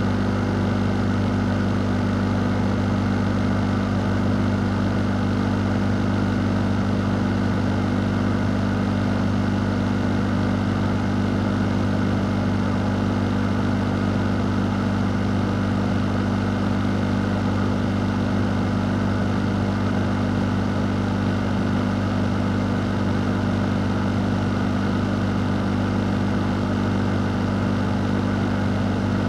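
Electric fan running steadily: a low motor hum under an even rush of moving air.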